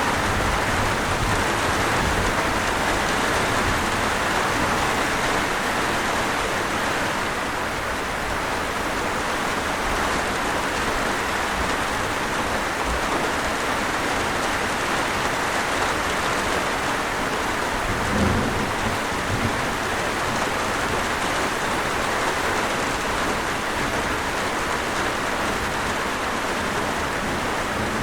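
Steady, even rainfall. A brief low thump comes about two-thirds of the way through.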